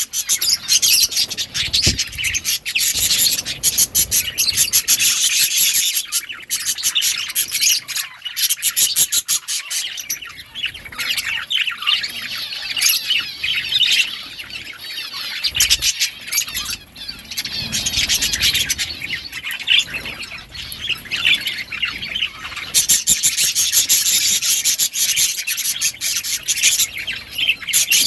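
Budgies chattering and chirping continuously, with many scratchy clicks and rustling sounds mixed in.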